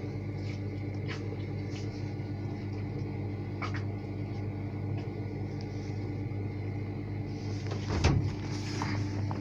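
Hotpoint-Ariston Mix 15 washing machine running with a steady hum and faint scattered clicks, and one sharp thump about eight seconds in.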